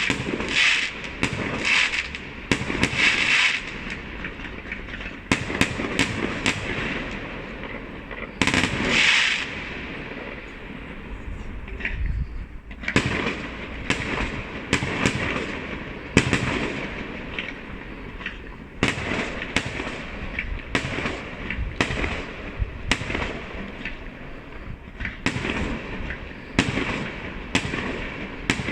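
Fireworks going off in the open air: many separate bangs at uneven intervals, with denser stretches of crackling near the start and around nine seconds in.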